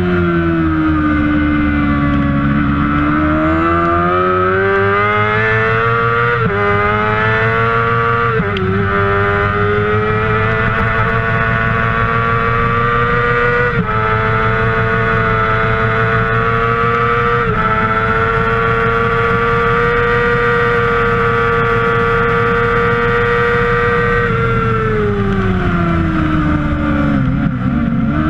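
Kawasaki ZX-6R 600 cc inline-four race engine at full throttle. The pitch dips early on, climbs through several quick upshifts and holds high and steady for about ten seconds. It winds down again a few seconds before the end as the bike slows.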